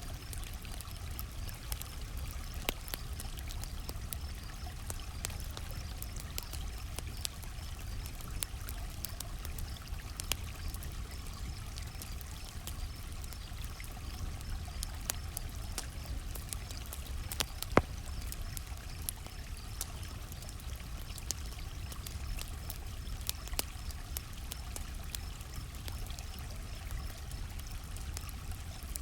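Campfire crackling with scattered sharp pops, one much louder pop about eighteen seconds in, over a steady low rush. Crickets chirp in a steady, even pulse.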